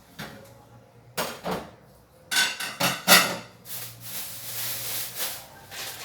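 Kitchenware clattering: sharp knocks and clinks of utensils against dishes, several in quick succession, followed by about two seconds of rushing hiss.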